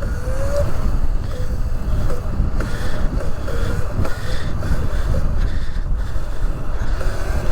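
Wind buffeting the microphone with a steady low rumble, as from riding on a motorbike, with faint wavering tones in the background.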